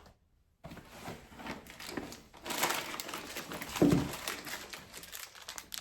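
Plastic grocery bags and packaging rustling and crinkling as items are handled, with one duller thump about four seconds in as something is set down.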